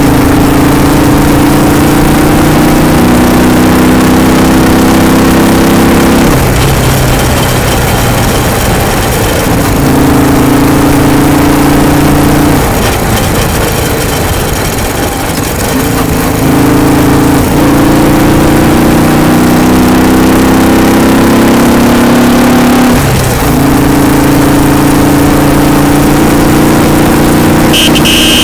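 Royal Enfield single-cylinder motorcycle engine running under load, its pitch climbing slowly for several seconds at a time and then dropping back. The drops come at roughly six-second intervals, with a longer lull in the middle.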